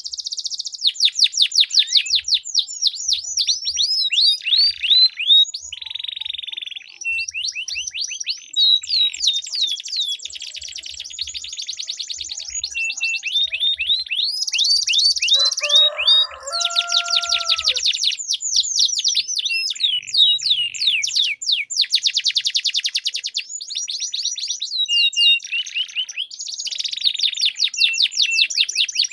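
Domestic canaries singing in long, fast rolling trills of rapidly repeated high notes, one run straight after another. About halfway through, a brief lower call with two steady held tones cuts in.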